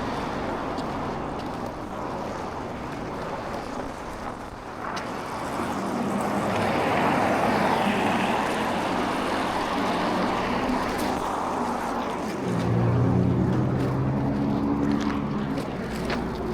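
Road traffic: a vehicle's noise swells and passes, then a steady low engine drone sets in about two-thirds of the way through.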